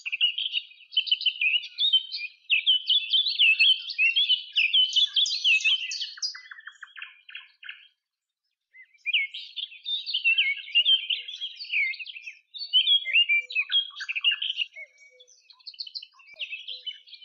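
Small birds chirping in a fast, busy chatter, with a brief pause about eight seconds in.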